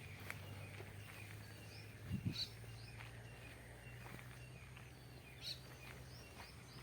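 Birds chirping in short, high notes over a low steady hum, with a couple of soft thumps about two seconds in.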